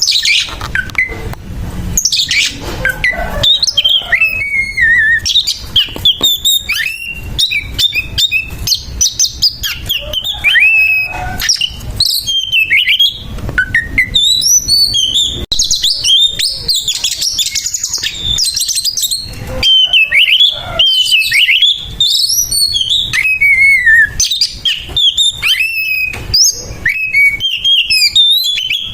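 Oriental magpie-robin singing a harsh, fast fighting song: an unbroken run of quick whistled phrases and rasping notes, the bird's challenge to a rival.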